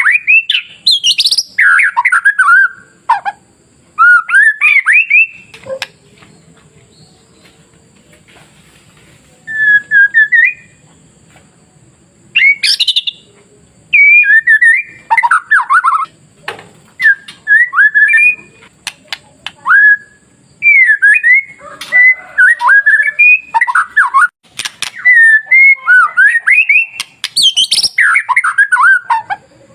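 White-rumped shama (murai batu) singing: loud, varied phrases of whistled notes sweeping up and down. The phrases come in bursts a second or two apart, with a pause of a few seconds near the start.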